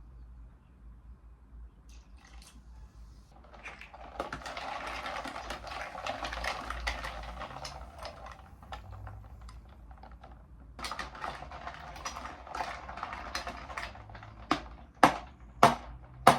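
Crisp crinkling and crackling of paper or cardboard food packaging being handled close to the mic, in two long stretches. Then a few loud, sharp knocks near the end.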